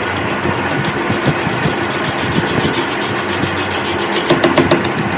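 A motor or engine running steadily with a fast, even ticking rattle, and a few louder strokes near the end.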